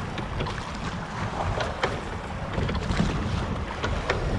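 Wind buffeting the microphone in a steady low rumble aboard a wooden Cornish pilot gig, with scattered small splashes and knocks of water against the hull.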